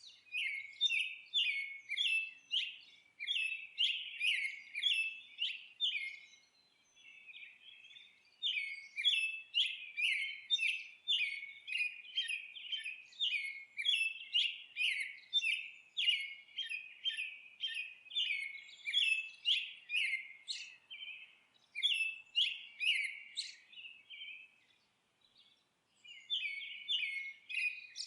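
Small songbird chirping in long quick series of short, high notes, about two to three a second, pausing briefly twice.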